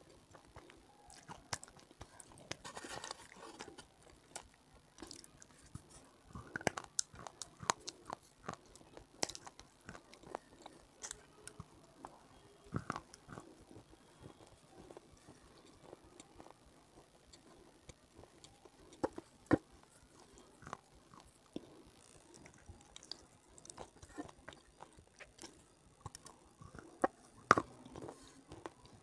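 A person biting and chewing crunchy, crumbly grey chalk-like lumps close to the microphone: irregular sharp crunches and crackles, a few much louder bites, with quieter chewing between.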